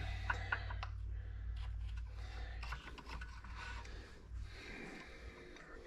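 Light clicks and scraping of metal parts and tools being handled, with a few sharp clinks in the first second. Under them runs a low steady hum that fades out about four seconds in.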